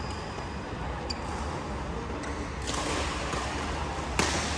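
Badminton rally over steady hall noise: a brief high shoe squeak about a second in, and one sharp smack of a racket striking the shuttlecock near the end.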